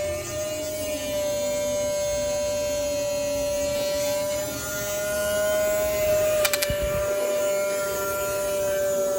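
Small DC hobby motor running steadily with a high hum that wavers slightly in pitch, with a few quick clicks about six and a half seconds in.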